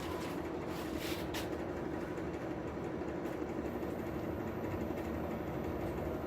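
Steady hum and rush of air from a blower feeding a hardwood-charcoal forge fire, running evenly throughout, with a couple of faint clicks about a second in.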